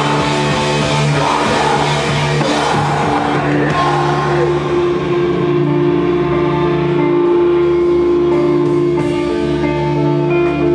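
Rock band playing live: guitars and drums together for about the first four seconds, then settling into long held guitar notes.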